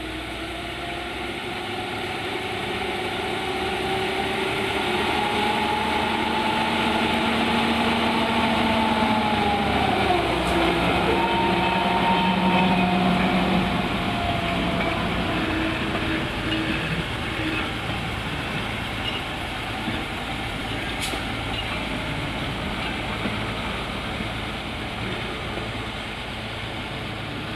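A 1920s Triangel petrol railcar train passing. Its engine note swells and drops in pitch as it goes by, about ten seconds in, then the coaches rumble past on the rails.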